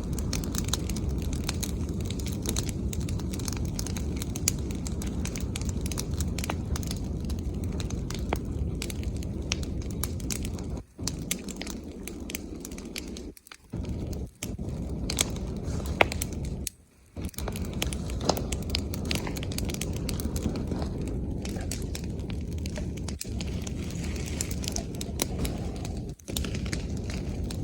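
Bonfire of branches and leaves crackling and popping over a steady low rush, with frequent sharp snaps. The sound cuts out briefly several times.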